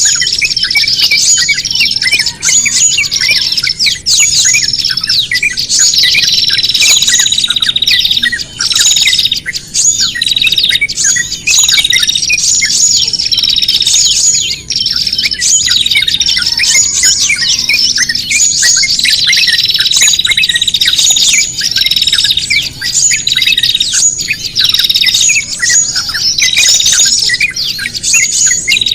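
Small songbirds calling at once in a loud, dense chatter of rapid high chirps and squawks, with a longer steady high note now and then. This is a bird-trapping lure call of agitated small birds, made to sound like a bird in distress.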